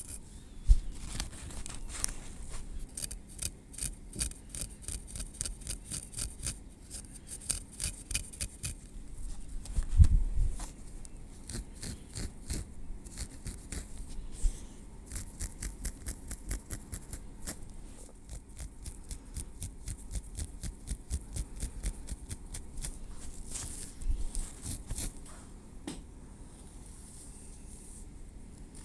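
Tweezers clicking and scratching through hair and against the scalp, close to the microphone: rapid runs of fine ticks in bursts, with a single low thump about ten seconds in.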